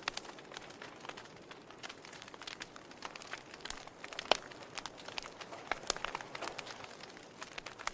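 Wood fire crackling in a fireplace: irregular pops and snaps over a soft hiss, with one louder pop about four seconds in.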